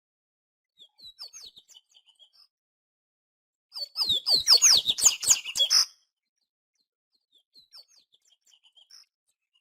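Papa-capim (Sporophila seedeater) singing: a soft twittering phrase about a second in, a loud two-second burst of fast, high chirps and down-slurred notes about four seconds in, then faint chirps near the end.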